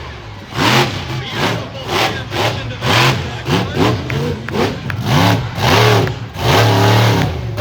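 Monster truck engine revved in short, repeated throttle blips, its pitch rising and falling about twice a second, with a couple of longer revs near the end.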